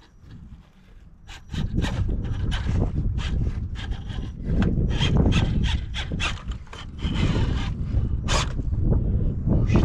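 Wind buffeting the microphone in a heavy rumble, over a run of irregular scraping and crunching noises. The rumble grows louder about a second and a half in.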